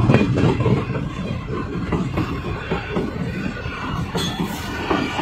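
Passenger coaches of a departing train rolling past close by: a steady low rumble of wheels on the rails with irregular clattering knocks, easing slightly after the first second.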